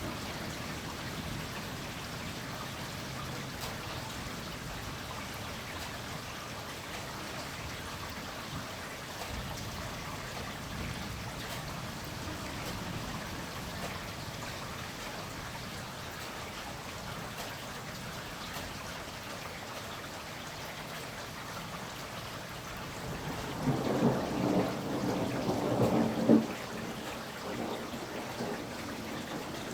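Steady rain falling, with a rumble of thunder lasting a few seconds near the end.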